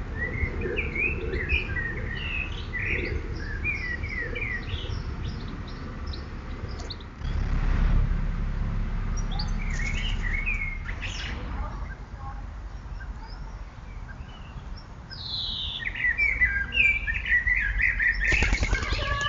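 Small birds chirping and twittering in quick short notes, in spells that come and go and grow busiest near the end, over a low steady rumble that swells for a few seconds in the middle.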